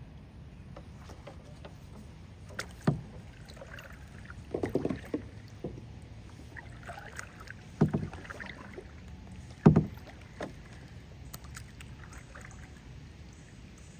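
A handful of sharp knocks and bumps against a kayak, with a short cluster of bumps about five seconds in and the loudest knock near ten seconds.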